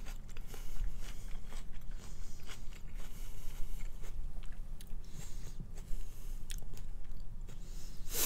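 Close-miked chewing of fried clam strips: a steady run of wet mouth clicks and small crunches, with one louder click near the end.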